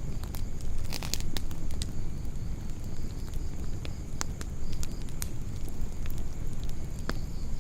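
Wood campfire burning, with irregular sharp pops and crackles over a low steady rumble of flames.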